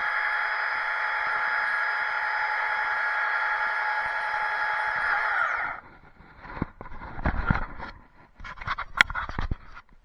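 Two-stroke chainsaw running steadily at high revs, then winding down and cutting off a little over halfway through. A few irregular knocks and clatter follow.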